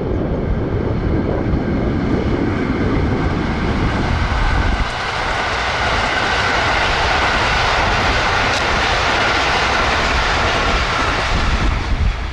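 A train passing close by at high speed, a rushing hiss that builds about five seconds in and stops abruptly shortly before the end, over low rumbling wind on the microphone.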